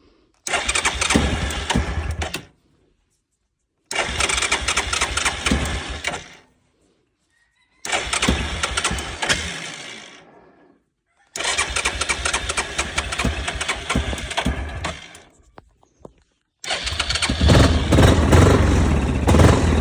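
Yamaha Grizzly 660 ATV's single-cylinder engine being started with a freshly replaced neutral position sensor. There are several separate starting attempts of a couple of seconds each, fading away, and then a louder final one that keeps running.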